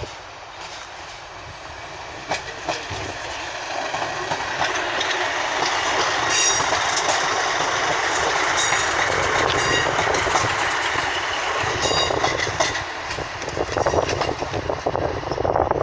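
Class 156 diesel multiple unit pulling out of the station, its underfloor diesel engines building up over the first few seconds and then running steadily loud. Its wheels give scattered sharp clicks over rail joints and pointwork.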